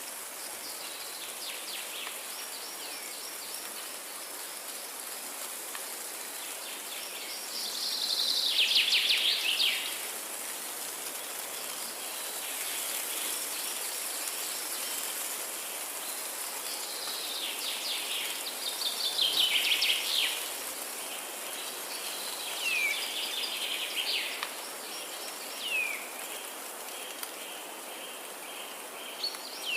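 Forest birdsong over a steady background hiss that has a faint high band. There are two loud, rapid trilling phrases, about 8 and 19 seconds in, and short down-slurred notes toward the end.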